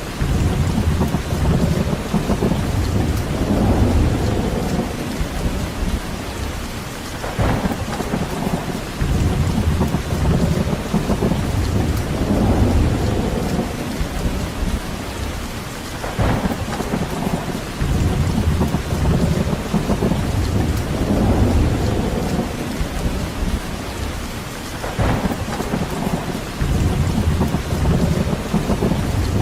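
Steady heavy rain hiss under deep, rolling rumbles that swell and fade about every eight to nine seconds, each opening with a short crackle.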